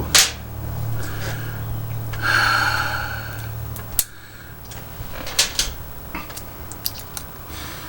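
Scattered sharp clicks and taps of objects being handled, with a brief muffled pitched sound a little over two seconds in.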